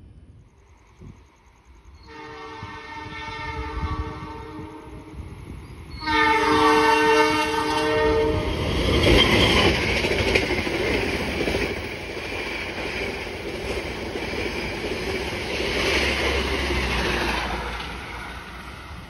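Diesel-hauled Sancaka express passenger train sounding a multi-tone horn twice, the second blast louder, then running past with the rumble and clatter of its wheels on the rails, fading near the end.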